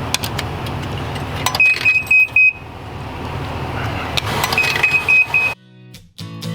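Self-serve coin car wash controls beeping: two runs of four short, high electronic beeps over a steady low running hum and a few clicks, as high pressure soap is selected. The sound cuts off about five and a half seconds in to acoustic guitar music.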